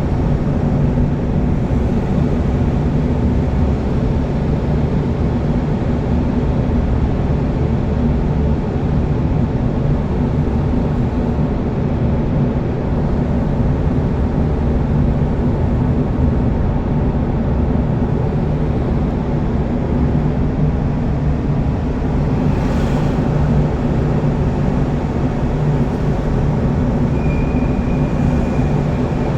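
Steady low drone of a moving road vehicle, engine and tyre noise holding an even level, with a brief hiss about three-quarters of the way through.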